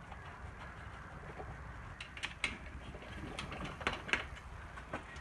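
Scattered light clicks and taps of hand work on small mower parts and tools, irregular and unhurried, over a faint low hum.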